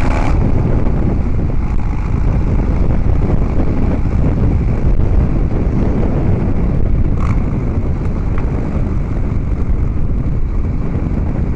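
A moving Harley-Davidson Dyna Street Bob: a dense low rush of wind buffeting the microphone mixed with the bike's rumble, with a short high tone about seven seconds in.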